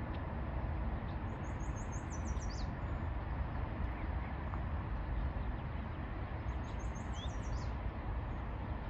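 A small songbird singing twice, each song a quick run of six or seven high, evenly repeated notes ending in a downward slur, over a steady low rumble.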